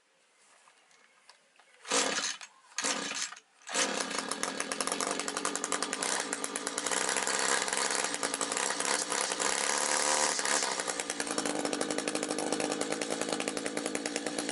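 A small handheld two-stroke engine fires briefly twice, then catches about four seconds in and runs steadily.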